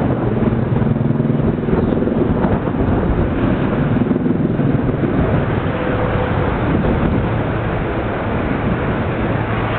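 Electric commuter train running into an elevated station: a loud, steady rumble of wheels on track, with a low motor hum in the first few seconds and again near the end.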